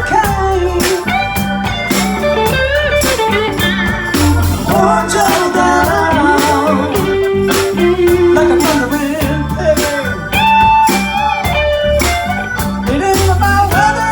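Live blues band playing: a drum beat and bass line under a lead line of bent, sliding notes.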